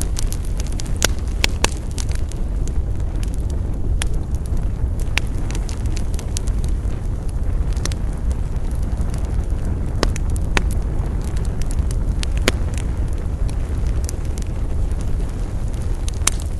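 Wood campfire burning: a steady low rumble of flame with sharp, scattered crackles and pops from the burning wood, a few seconds apart at irregular intervals.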